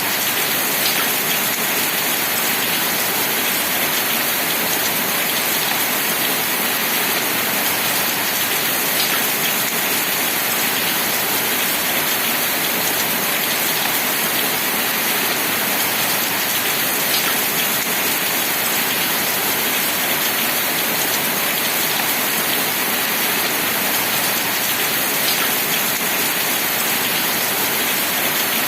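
Steady rain falling, an even hiss with a few separate drop ticks every several seconds.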